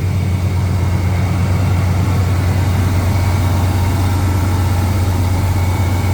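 Chevrolet 454 big-block V8 in a 1990 454 SS pickup idling steadily, with a noise from the accessory drive that the owner puts down to a worn idler pulley.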